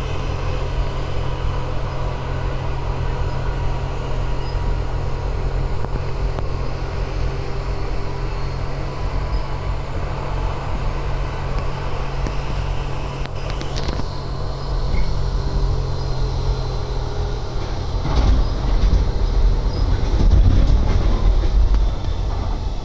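Passenger train running, heard from inside the carriage: a steady low rumble with a constant hum, a couple of sharp clicks midway, and the rumble growing louder for a few seconds near the end.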